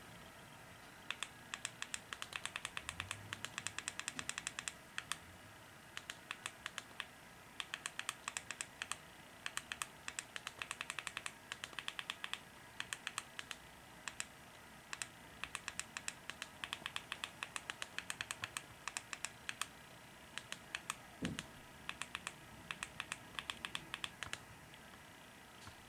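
Computer keyboard typing: quick runs of keystroke clicks separated by short pauses.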